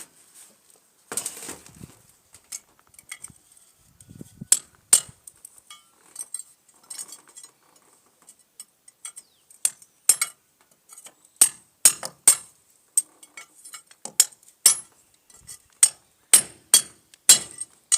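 Hammer striking a steel chisel to chip out and widen a roof drain hole: irregular sharp metallic strikes with short pauses, coming faster and louder in the second half.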